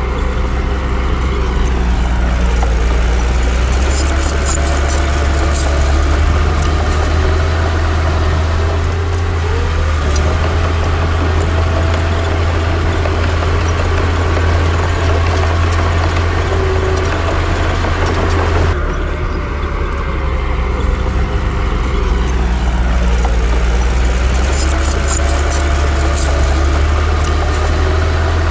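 Komatsu D60 bulldozer's diesel engine running steadily, its pitch rising and falling as the load changes, with scattered sharp clicks over it. The sound changes abruptly about 19 seconds in.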